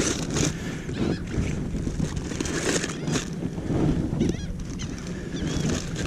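Wind rumbling on the microphone and water slapping, with a few short, high bird calls in the second half.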